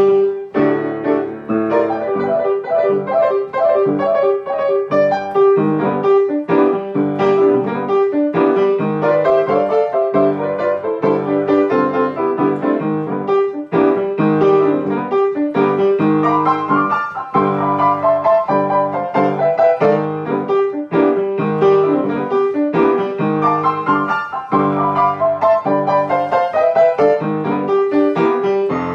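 Piano playing an instrumental passage without singing: a busy run of notes and chords.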